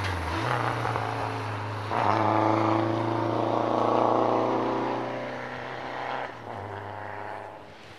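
Rally car engine running at high revs. It comes in suddenly louder about two seconds in and fades away after a few seconds.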